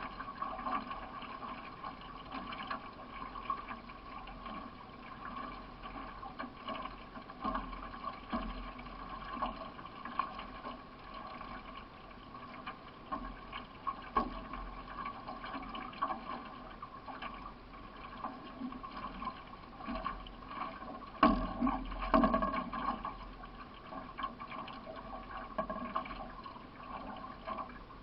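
Racing canoe under way, with a steady wash of water along the hull and the splash of paddle strokes. There is a louder splash about two-thirds of the way through.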